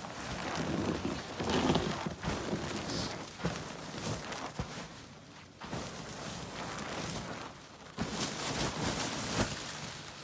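Snow being cleared by hand: irregular crunching, scraping swishes with a few soft knocks.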